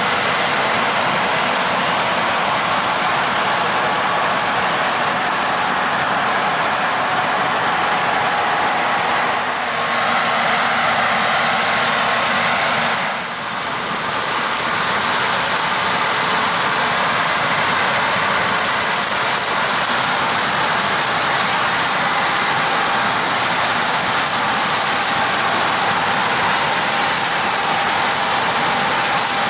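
Combine harvester running while harvesting corn: a loud, steady machine drone of engine and threshing, with brief drops about nine and a half and thirteen seconds in.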